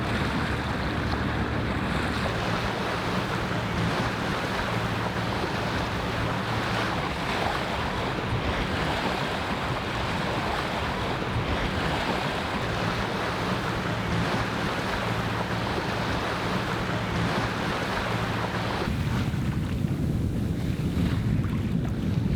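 Sailboat underway at sea: water rushing along the hull and wind buffeting the microphone, with a steady low hum underneath that stops about nineteen seconds in.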